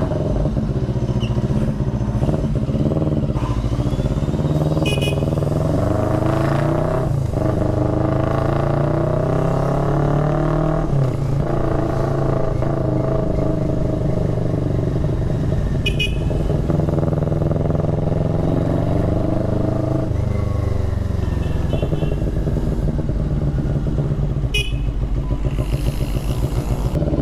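CFMoto 400NK's parallel-twin engine running through a newly fitted replica SC Project aftermarket exhaust while riding, its pitch climbing under acceleration and dropping at several gear changes.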